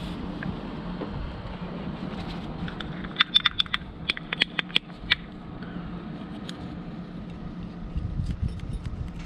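A quick run of about a dozen sharp, light metallic clicks and rattles, like small hard parts or tools being handled, about three seconds in, over a steady low hum.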